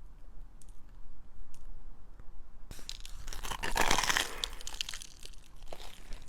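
Crisp food being bitten and crunched, a dense crackling crunch that starts about three seconds in and is loudest around four seconds, after a quieter stretch with a few faint clicks.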